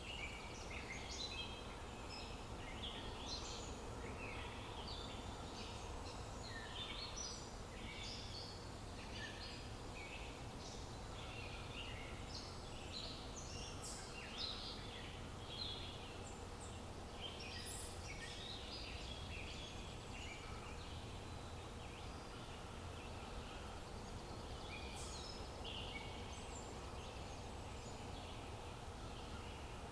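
Many songbirds chirping and singing at once, a dense, continuous chorus of short high calls over a steady low outdoor rumble.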